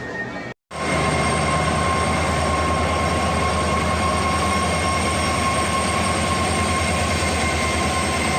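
A train running at the railway platform, with a steady low throb under a constant high whine. It starts after a brief silence about half a second in.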